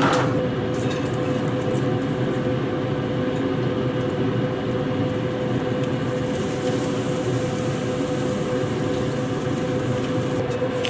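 Steady machine hum with a constant mid-pitched tone over an even droning noise, unchanging throughout.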